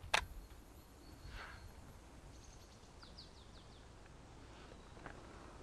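Quiet woodland ambience with a short bird call about three seconds in: a quick run of five or six high, falling chirps. A single sharp click right at the start.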